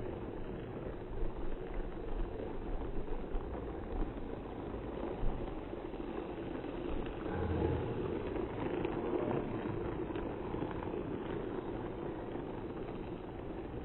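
Toy train running on its track: a steady whirring and rattling noise, with a few small clicks in the first few seconds.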